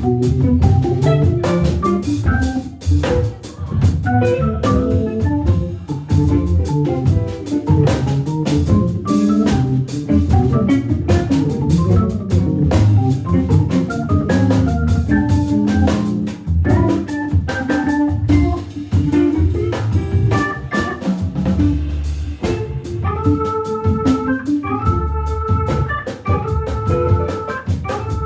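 Hammond B3 organ through a Leslie speaker playing a fast jazz-funk line over a drum kit groove. Near the end the organ settles into a repeated short chord riff.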